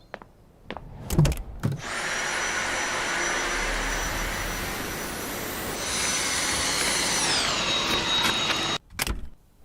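Vacuum cleaner motor switched on with a click and running with a high whine. About seven seconds in, the whine glides down to a lower pitch, as when the power setting is lowered, and it cuts off suddenly near the end, followed by clicks.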